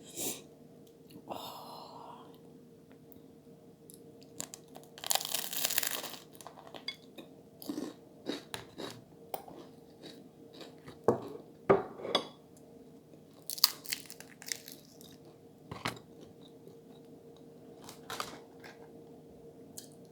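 A person chewing and crunching food close to the microphone, with scattered sharp clicks of bites and mouth sounds; a faint steady hum runs underneath.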